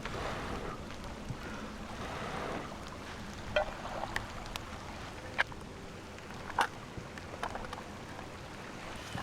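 Steady wind and water noise, with several sharp clicks and knocks scattered through the middle.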